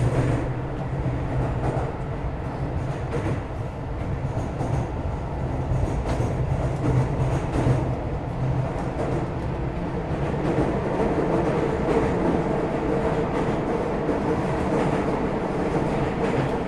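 Running noise inside a Keio 2000 series electric commuter train: a steady rumble of wheels on rail with a low hum, and a higher tone that grows stronger in the second half.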